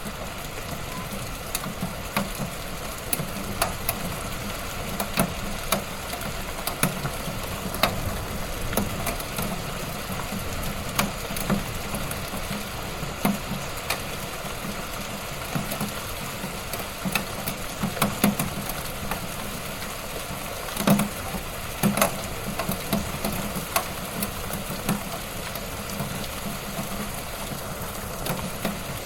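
Wood fire burning in a fireplace, crackling steadily with irregular sharp pops over a low hiss and rumble, two louder pops about two-thirds of the way through.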